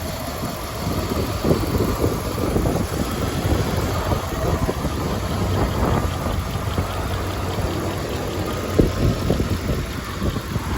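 1998 Dodge Ram 2500's 5.9-litre gas V8 idling steadily, with irregular low buffeting over the engine hum.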